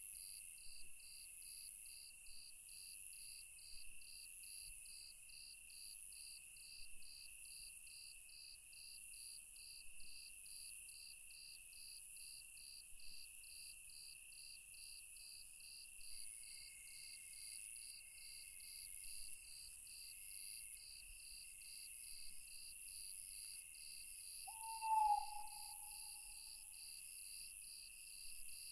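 Night insects such as crickets chirping steadily in an even pulse of about two chirps a second over a constant high-pitched buzz. About 25 seconds in, a single owl hoot falls slightly in pitch and fades over about two seconds; it is the loudest sound.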